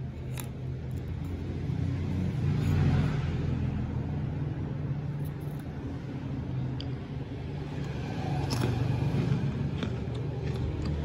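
Crunchy chocolate biscuit being chewed, over a steady low engine-like rumble, with a sharp click about half a second in.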